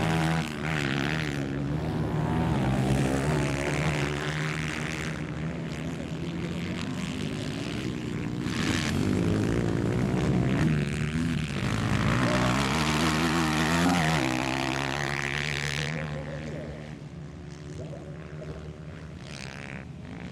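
160cc four-stroke race motorcycles running on a dirt track, their engines revving up and down between gear changes and corners. The engine sound falls away about sixteen seconds in as the bikes move off.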